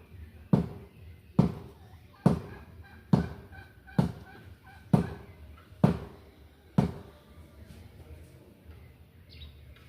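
Eight heavy blows struck at a steady pace, a little under a second apart, each with a short ring, as in tree-felling work with a striking tool on wood; they stop about seven seconds in.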